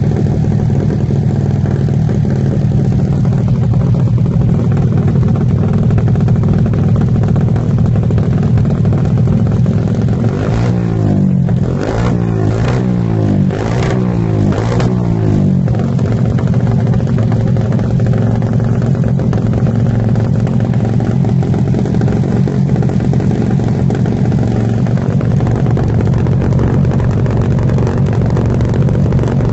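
Engine idling through a trioval aftermarket exhaust muffler, with about five quick throttle blips in a row around the middle before it settles back to a steady idle.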